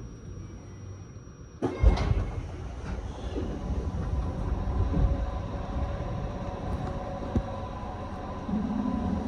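Train interior: a sudden clunk about two seconds in, then steady low rumbling with scattered clicks and knocks from the running gear.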